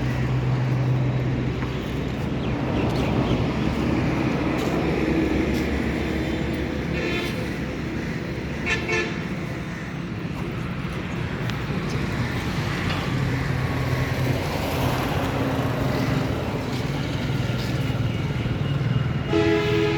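Road traffic with engines running steadily and short horn toots about nine seconds in and again near the end.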